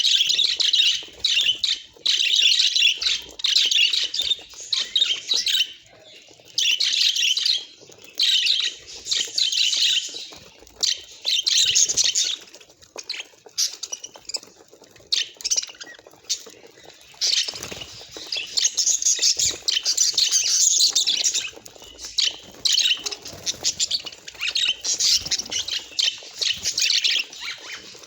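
Budgerigars chattering and warbling: dense, fast, high chirps and squawks in bouts of a second or few, with short pauses and a quieter stretch in the middle.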